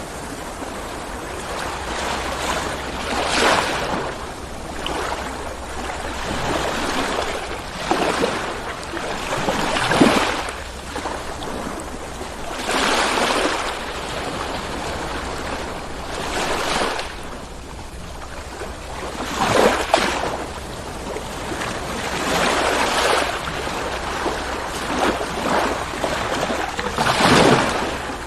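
Ocean waves rolling in and breaking, with a fresh surge of surf every three to four seconds over a steady wash.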